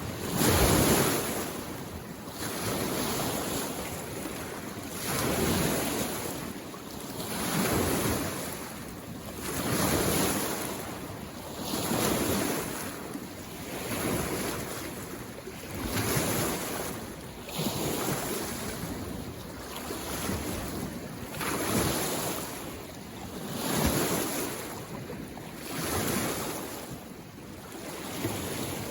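Small lake waves washing onto the shore, each swell rising and falling away in a steady rhythm about every two seconds.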